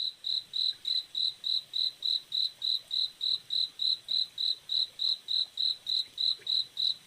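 A cricket chirping steadily, about three evenly spaced high chirps a second.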